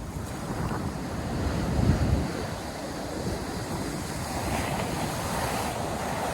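North Sea surf washing onto the beach, a steady wash of breaking waves, with wind buffeting the microphone in low gusts strongest about two seconds in.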